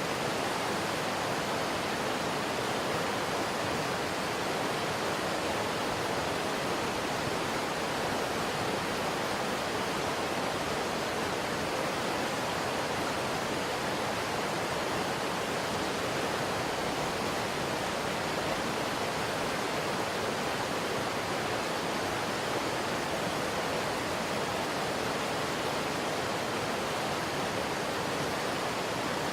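A fast mountain river rushing, a steady, unbroken noise of running water with no changes.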